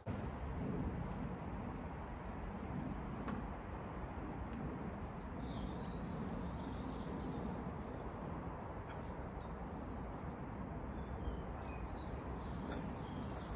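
Small birds chirping now and then, short high calls scattered over a steady low background rumble.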